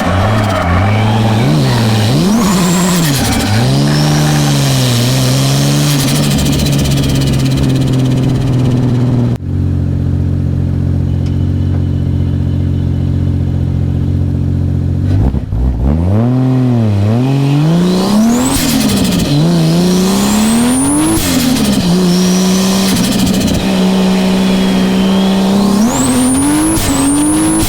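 Toyota JZS161's 2JZ straight-six engine revving hard through drift runs, its pitch climbing and dropping over and over. About ten seconds in it settles to a steady low note for around six seconds before the revs climb and fall again.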